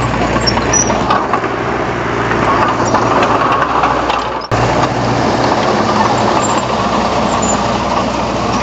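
Komatsu D31 bulldozer's diesel engine running steadily, with a sudden short break about four and a half seconds in.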